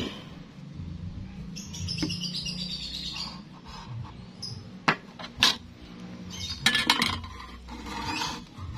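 Small birds chirping in short high-pitched bursts, with a few sharp metal clicks in the middle as a steel square is handled against metal square tubing.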